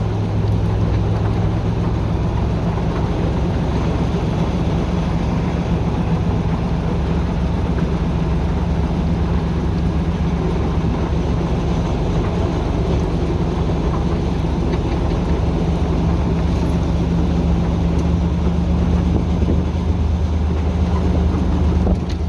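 YaMZ-236 diesel engine of a TU6A narrow-gauge locomotive running steadily as the locomotive travels along the track, a low, even drone with a rolling rumble beneath it.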